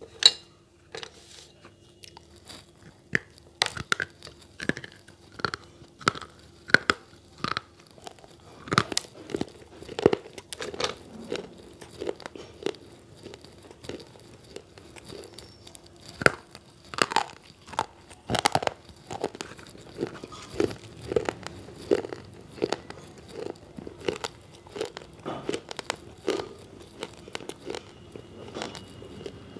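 A person biting and chewing slate pencils close to the microphone: a long run of sharp, separate crunches, about one or two a second.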